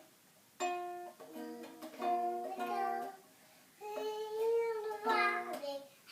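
A small plucked string instrument, played as a mock "bass guitar", picking out a short run of single notes that step up and down. Near the middle a voice sings a few held notes over it.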